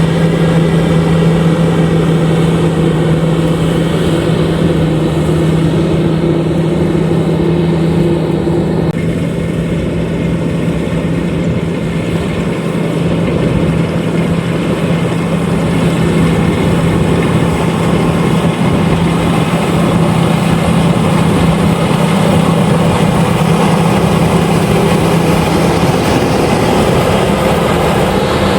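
LOVOL RG130EVO combine harvester running steadily while harvesting rice, a constant loud machine drone with a steady low hum, easing slightly for a few seconds about nine seconds in.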